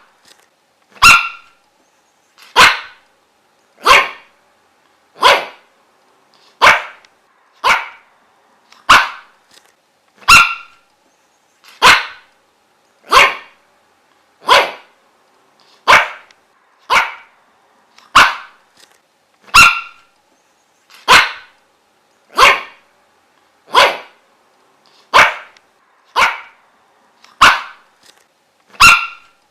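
A dog barking in single short barks at an even pace, about one every second and a quarter, each bark much like the last.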